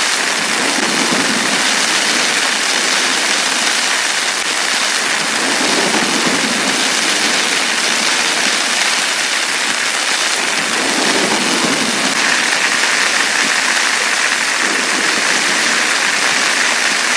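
Heavy rain falling in a steady, dense downpour, an even hiss that doesn't let up.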